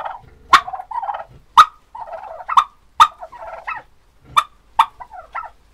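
Male turkeys (toms) gobbling in display, one rattling gobble after another, about two sharp loud notes a second with burbling between them.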